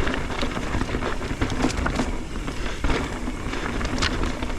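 Mountain bike rolling fast over a rough dirt and rock trail: steady tyre noise and rumble, broken by frequent short knocks and rattles as the bike hits bumps.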